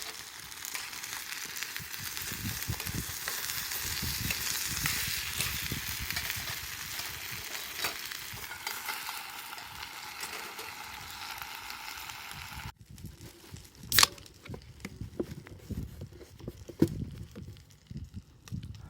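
Steady sizzling hiss with small crackles over a campfire. About 13 seconds in it cuts off, and quieter scattered knocks and clatter follow, with one sharp click shortly after.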